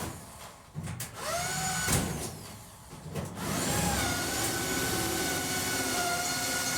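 A handheld electric power tool's motor whining: it spins down at the start, is started and released again with rising and falling pitch, and from about four seconds in runs steadily. A sharp knock comes about two seconds in.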